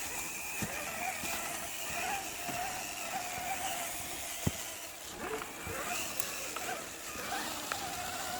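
Whine of a radio-controlled rock crawler's electric motor and geared drivetrain, wavering in pitch as the throttle changes, with a few sharp knocks as it crawls over rocks; the loudest knock comes about halfway through.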